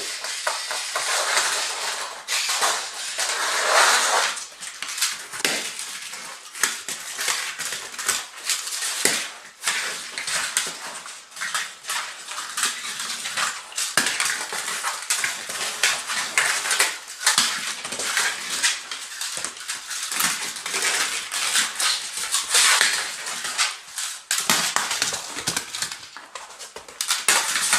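A smooth fox terrier attacking and chewing a toy spider: continuous rapid clattering, scraping and crunching of the toy, until the toy breaks.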